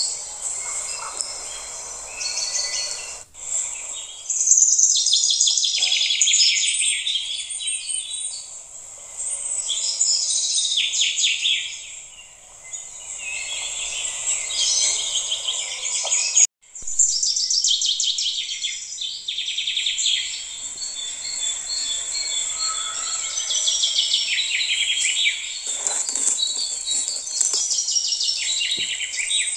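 Birds chirping and trilling, many quick repeated high calls overlapping, with a brief cut-out about halfway through.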